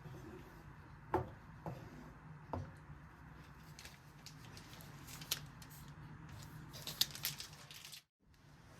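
Quiet kitchen handling sounds: a few soft knocks in the first few seconds, then light sharp clicks later on, over a low steady hum. The sound drops out briefly near the end.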